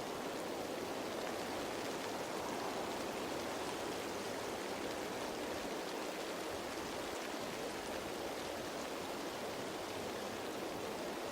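Steady rain falling on leaves: an even, unbroken patter-hiss.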